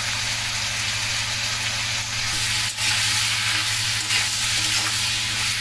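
Cubed pumpkin sizzling steadily in hot oil in a kadai, being stirred with a metal spatula.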